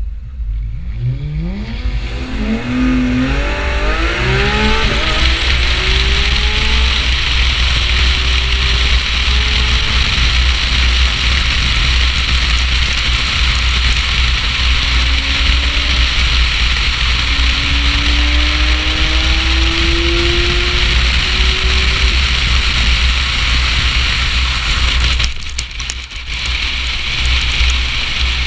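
Porsche 991 GT3-series naturally aspirated flat-six under hard acceleration, its pitch climbing in quick steps through several upshifts in the first five seconds, under heavy wind rush and road noise on a car-mounted microphone. Fainter climbing engine notes carry on through the middle, and the rush drops briefly near the end.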